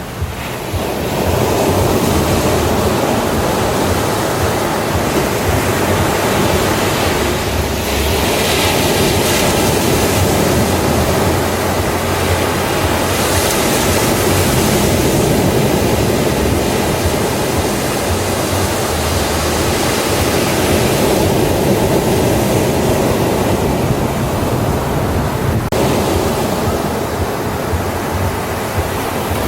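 Ocean surf breaking on a beach: a continuous wash of waves that swells louder and hissier twice in the middle, as bigger waves break.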